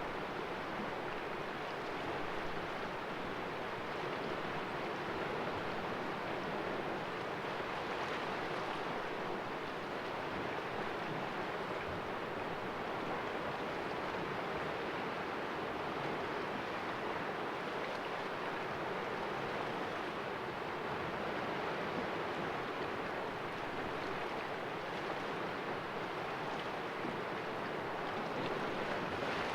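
Sea waves washing steadily against the rocks of a small cove, a continuous surf wash with gentle swells.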